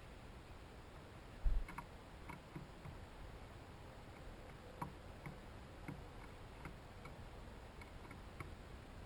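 A low thump about one and a half seconds in, then faint, irregular light taps and clicks: birds landing on and pecking at a hanging seed feeder.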